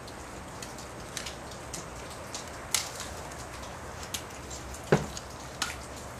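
Wet snow coming down and dripping: a steady hiss with scattered, irregular ticks and taps, and one louder knock about five seconds in.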